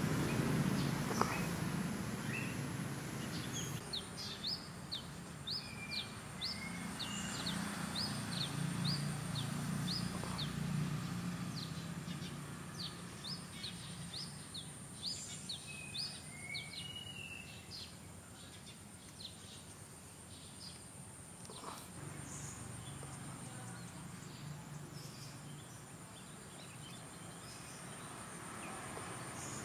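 Outdoor ambience with a small bird giving quick, short, high chirps about twice a second through the first half, fewer later, over a steady thin high-pitched whine and a low rumble.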